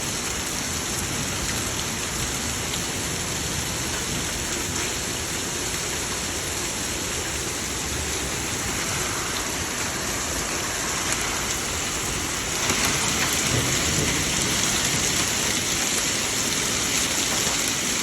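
Heavy thunderstorm downpour hammering down steadily, getting heavier about two-thirds of the way through.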